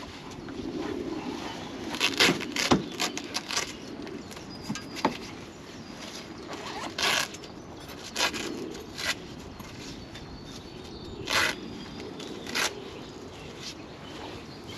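Rustling, short swishes and sharp clicks of camping gear being handled as tent pegs are got out of their peg bag; a flurry of clicks and rustles about two seconds in, then single swishes every second or so.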